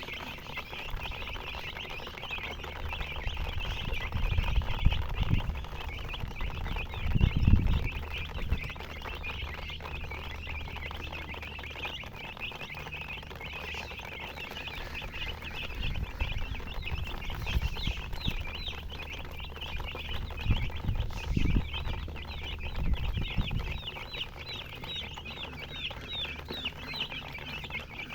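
A brood of baby chicks chirping continuously, many short high peeps overlapping. Several low rumbles rise and fall beneath them, the loudest about seven seconds in.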